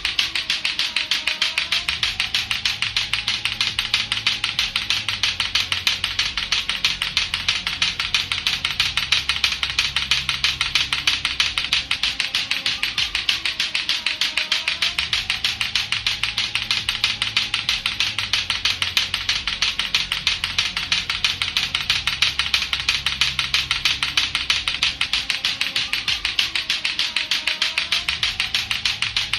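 Latto-latto clacker toy, its two plastic balls knocking together in a fast, steady, unbroken run of sharp clacks, over a looping background music track with a low bass line.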